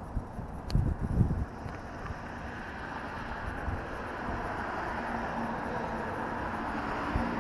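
Suzuki LS650 Savage motorcycle riding, its single-cylinder engine running under a steady rush of wind and road noise that grows as it picks up speed. A few low thumps come near the start.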